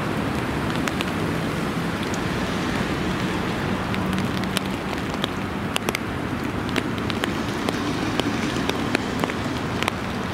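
Steady rain, with many sharp single drop ticks close by and a low rumble of storm wind on the microphone.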